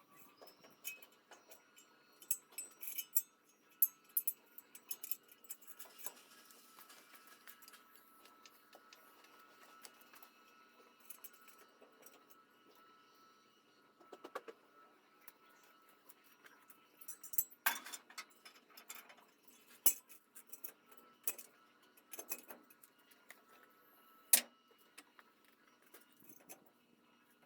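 Hand tools working on nuts and bolts: scattered light metallic clinks and clicks of a spanner or socket against metal, with a few sharper knocks, over a faint steady hum.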